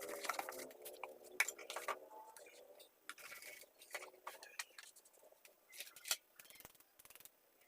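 Scattered light clicks and clinks of small metal parts and tools being handled while a mini chainsaw is cleaned, with a brief pitched sound that bends in the first two seconds.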